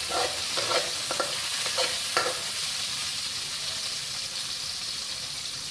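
Sliced onions sizzling in hot oil in a wok, with a spatula scraping the pan in several short strokes during the first couple of seconds. After that there is a steady sizzle alone.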